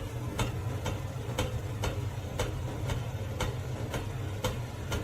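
Steady ticking, about two sharp clicks a second, over a low rumble.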